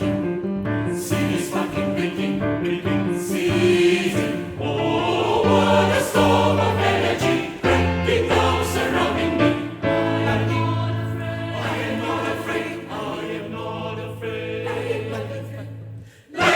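Mixed choir singing with piano accompaniment, the voices held on long sustained chords in the second half.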